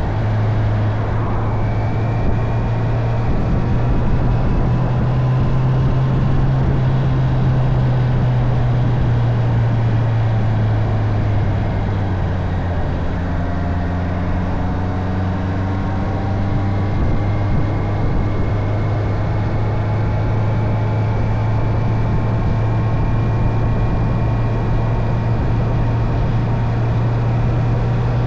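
Honda CB650R inline-four motorcycle engine running at a steady cruise, its pitch drifting gently up and down with speed, over a constant rush of wind noise.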